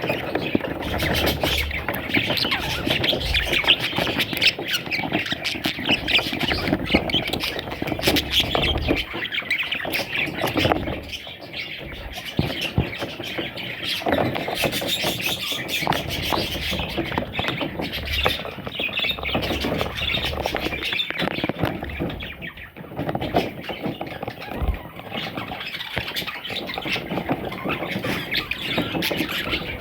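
Pet parrots chattering and squawking continuously, a dense stream of short sharp calls and chirps.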